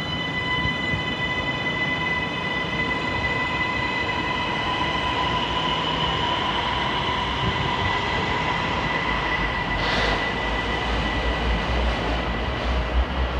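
Siemens Inspiro metro train running out of the station, a steady whine of several high tones over its wheel rolling noise, which is unusual-sounding for this train. A deep rumble builds up from about two-thirds of the way in.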